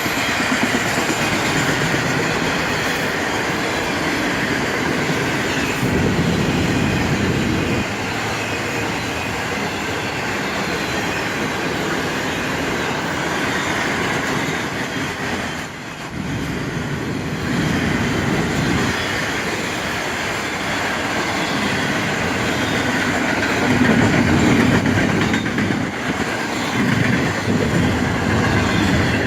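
Freight cars of a passing freight train rolling by close at hand, their steel wheels on the rails making a continuous rumble with a short lull about halfway through.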